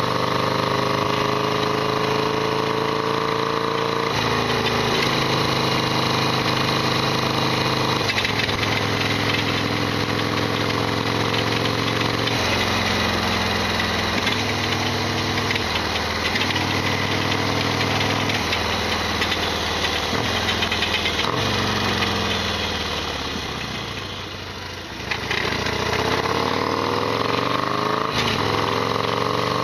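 Modified Harley-Davidson Sportster XL1200R V-twin running under way, its note shifting in steps as the rider changes gear and throttle. About five seconds before the end it eases off and goes quieter, then picks up and rises again. The bike has the rattly, clattering mechanical noise its owner calls loud as ever.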